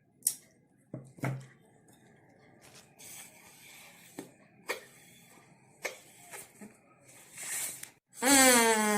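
A few sharp snips and clicks of scissors cutting a plastic drinking straw, then near the end a drinking-straw reed whistle with a triangle-cut tip is blown. It gives one loud, steady reedy tone that falls slightly in pitch.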